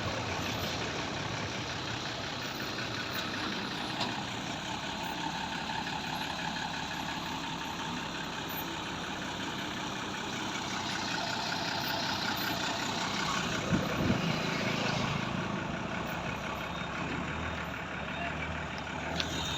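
Heavy truck engine running steadily at a low idle.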